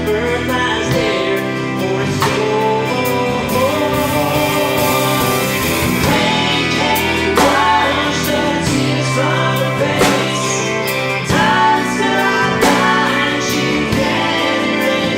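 Live band playing a slow song: acoustic guitar, bass, drums and keyboards, with singing over them.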